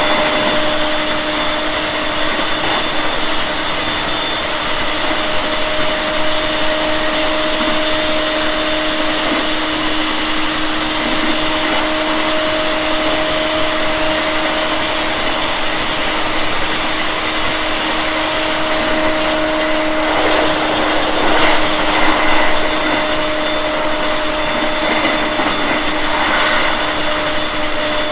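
JR 701 series 5500-subseries electric train running at speed, heard from inside the car: steady whining tones over even rolling noise, with a brief louder rush of noise about two-thirds of the way through.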